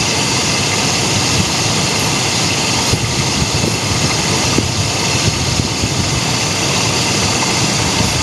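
A steady, even running noise like an engine idling, with no changes in pitch or level.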